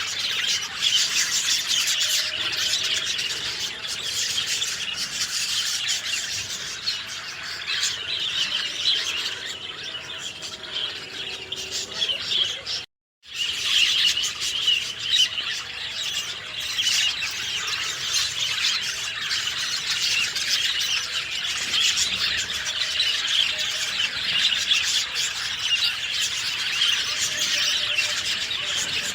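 Dense chorus of many small birds chirping and twittering at once, with a brief drop to silence about halfway through.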